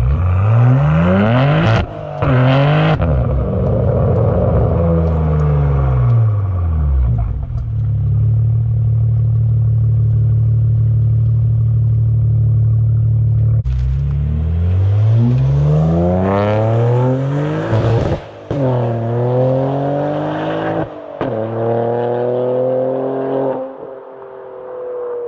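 BMW G80 M3's S58 twin-turbo inline-six through a valveless, catless InkedCustom race exhaust, pulling hard through the gears: the revs climb and break off at quick upshifts about two and three seconds in, hold steady for several seconds, then a second run starts about halfway with several more upshifts, and the revs fall away near the end.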